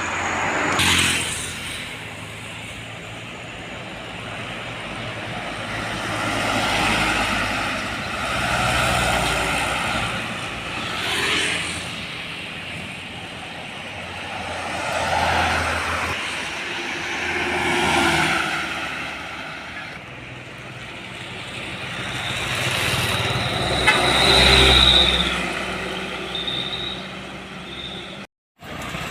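Road traffic with trucks and cars passing one after another, each swelling up and fading away. A thin high whine sounds briefly about three-quarters of the way through. The audio cuts out for a moment near the end.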